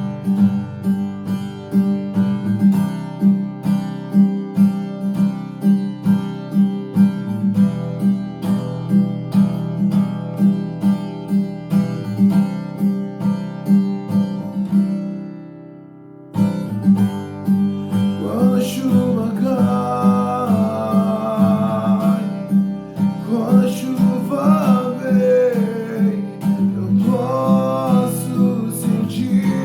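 Acoustic guitar strummed in a steady rhythm; it briefly fades about halfway through, then picks up again and a singing voice comes in over it.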